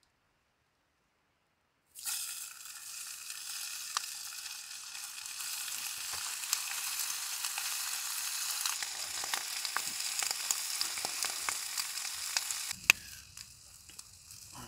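Ham sizzling and spitting in a hot pan: a steady hiss with many small pops. It starts abruptly about two seconds in and dies down after a sharp click near the end.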